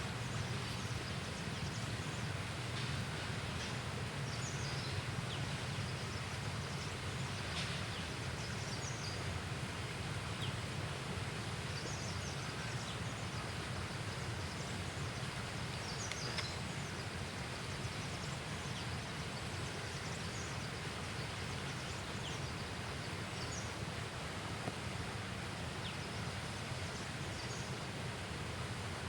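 Steady outdoor background noise, strongest in the low range, with short high chirps scattered through it every second or two.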